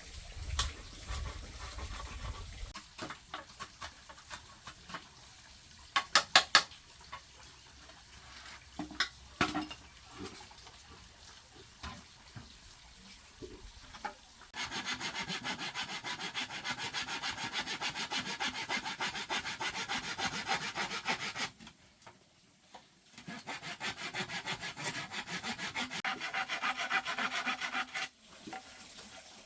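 Bamboo being sawn by hand: a steady rasping run of saw strokes lasting several seconds, a short pause, then a second run. Before the sawing there are scattered knocks and taps on the bamboo.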